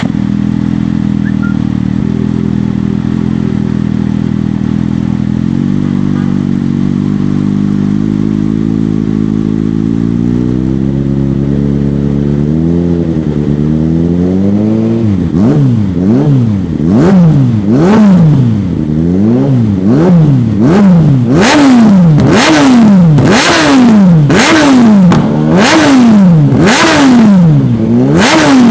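Yamaha R1 (2002) 998 cc inline-four sportbike engine breathing through a Termignoni aftermarket exhaust with a short link pipe. It idles steadily at first, its engine speed creeps up a little before halfway, then it is revved in repeated quick throttle blips, each rising and dropping back, about one a second.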